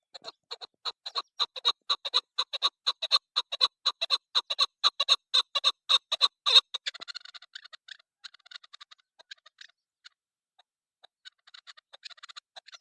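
Female chukar partridge (chakor) calling: a rapid run of sharp clucking notes, about three a second, growing louder. About six and a half seconds in it breaks into softer chattering, stops briefly, and picks up again near the end.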